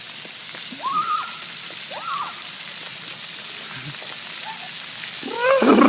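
Steady hiss of rain and fountain water. Two short cries about one and two seconds in, and a louder voice just before the end.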